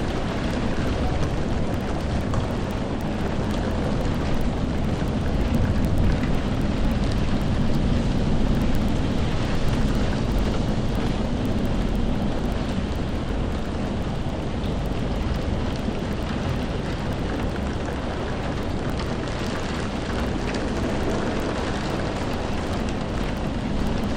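Steady rain falling, an even, unbroken wash of sound with a deep low rumble beneath it that swells slightly about a third of the way through.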